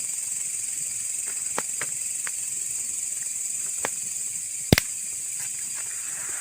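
Steady high chirring of night insects, with scattered sharp pops and crackles from a bonfire and one louder snap about three-quarters of the way through.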